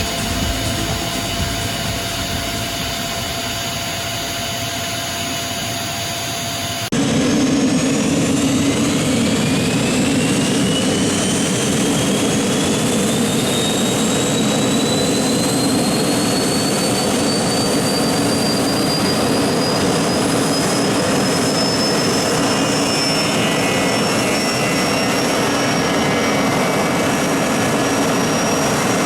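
Honeywell TFE731 turbofan running. About 7 seconds in, the sound jumps to a louder run, and a whine rises slowly over many seconds as the engine spools up, then holds steady near the end.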